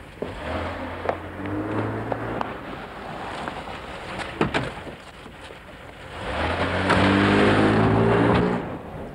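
Car engine running, with a few sharp knocks over it, then a car engine speeding up as it pulls away. It rises in pitch, is loudest for about two seconds near the end, and cuts off suddenly.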